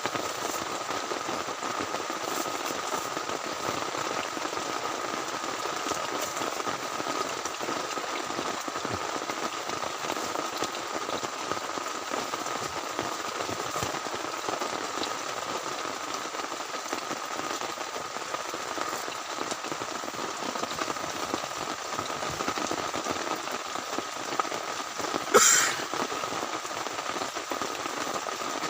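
Heavy rain falling steadily, a dense, even patter. Near the end comes one short, sudden, sharper sound, louder than the rain.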